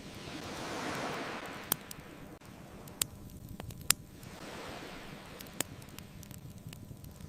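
Ocean waves washing in and receding, one swell about a second in and a softer one around five seconds, with the sharp pops and crackles of a wood fire between them, the loudest about four seconds in.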